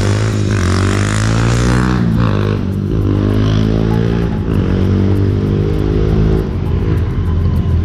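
Motorcycle engines pulling away under hard acceleration. The pitch climbs and drops back several times as they shift up through the gears, then settles into a steadier drone near the end.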